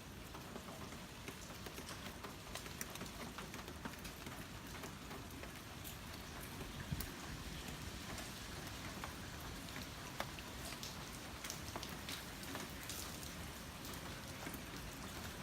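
Typhoon rain falling steadily, with many individual drops ticking sharply on nearby surfaces.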